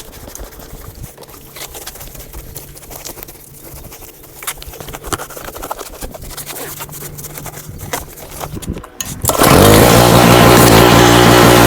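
Scattered light clicks and knocks, then about nine seconds in a KTM 350 four-stroke single-cylinder dirt bike engine comes in suddenly and runs loud and steady.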